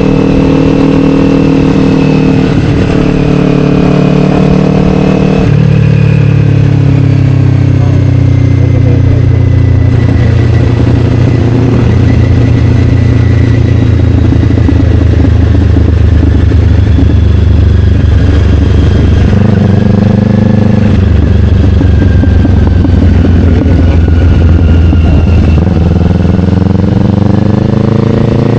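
Kawasaki Ninja 500's parallel-twin engine running through an Akrapovic slip-on exhaust while riding. The engine note drops in pitch about five seconds in, holds fairly steady, then climbs near the end as the bike accelerates.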